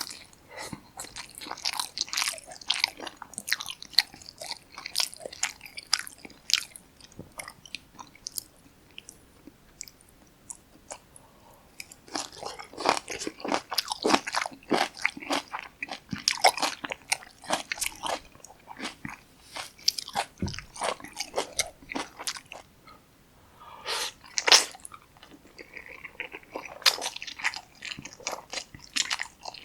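Close-miked eating of Jjapaghetti black bean noodles with kimchi: wet chewing and biting with crunchy bites, coming in runs with a couple of quieter pauses partway through.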